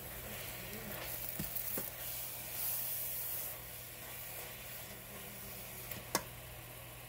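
Spinach sizzling in a hot stainless steel sauté pan as a spatula tosses it, the sizzle swelling briefly in the middle. The spatula clicks against the pan a few times, with one sharper knock about six seconds in.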